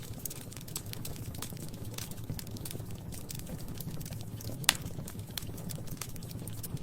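Wood fire crackling in a fireplace: scattered small pops and snaps over a low steady rumble, with one sharper, louder pop a little before five seconds in.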